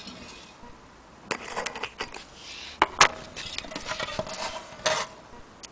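Irregular clicks, knocks and short rustles, the loudest two sharp clicks about three seconds in, with a faint ringing tone near the end.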